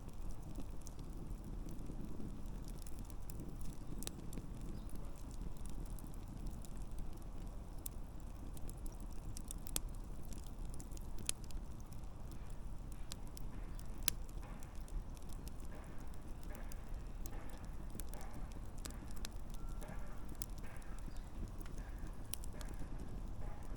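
Wood campfire crackling: scattered sharp pops and snaps over a low, steady rumble of the flames.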